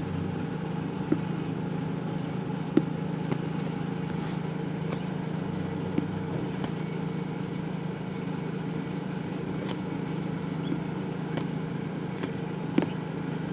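A vehicle engine idling with a steady hum, with a few light clicks over it.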